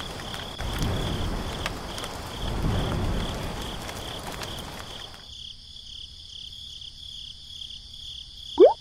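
Rain sound effect with a cricket chirping steadily in a fast pulse; the rain swells and ebbs, then cuts off suddenly about five seconds in, leaving the crickets alone. Right at the end a loud rising frog-like call starts.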